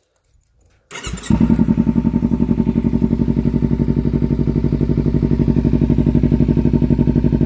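Kawasaki Ninja 300's parallel-twin engine, fitted with an MGP Growler aftermarket exhaust, cranks on the starter about a second in, catches almost at once and settles into a steady idle.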